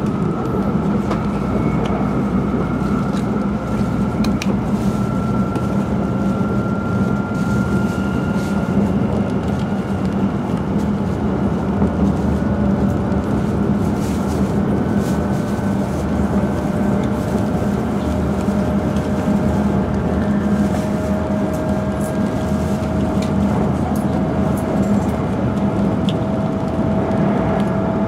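Steady running noise inside the cabin of an E5 series Shinkansen train at speed: a low rumble with a faint whine that slowly rises in pitch, and scattered light clicks.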